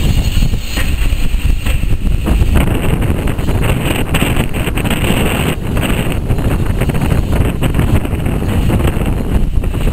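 Railway passenger coaches rolling past on the track, a low rumble with a few sharp knocks from the wheels, heavily buffeted by wind on the microphone.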